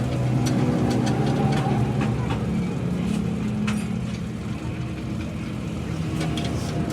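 An engine running steadily at a low pitch, with a few light clicks.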